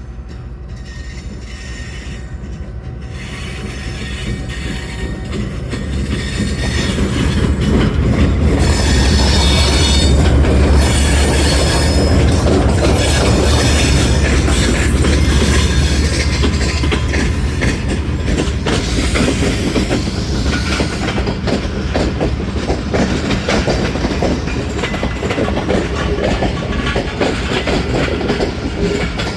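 A Pakistan Railways passenger express train approaching and passing. The diesel locomotive's low rumble builds and is loudest from about 8 to 16 seconds in. The coaches then follow with a steady rapid clatter of wheels over the rail joints.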